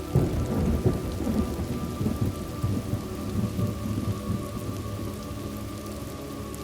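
A thunderclap breaks just after the start and rumbles and crackles, fading away over several seconds, over steady rain.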